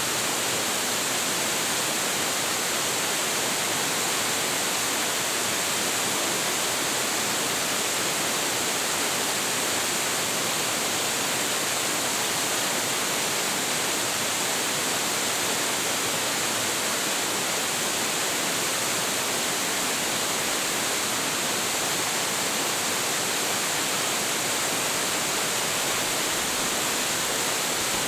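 Large waterfall pouring steadily into its plunge pool, a constant dense rush of falling water with no breaks.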